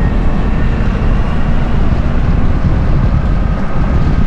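Tuk-tuk engine running steadily while on the move, with road and wind noise.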